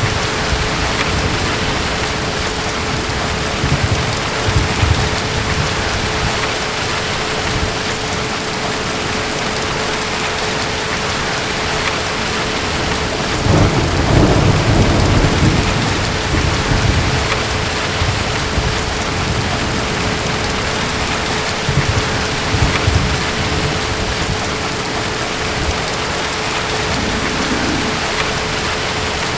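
Steady heavy rain with low rolling thunder. The strongest rumble comes about halfway through, with weaker ones a few seconds in and about three quarters of the way through.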